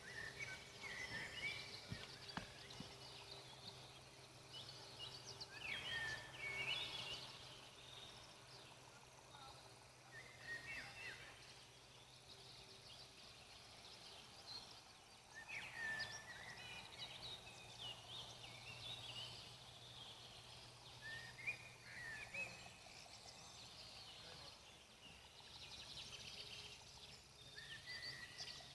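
A songbird singing short, faint chirping phrases that repeat every few seconds, over a low steady hum.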